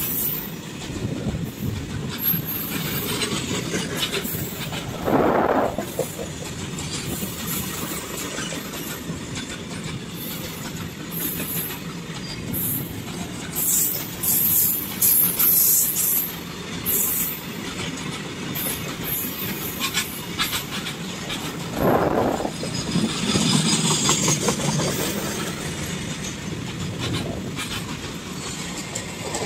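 Container freight train rolling past, its wagon wheels clattering over the rail joints, with repeated high-pitched wheel squeals.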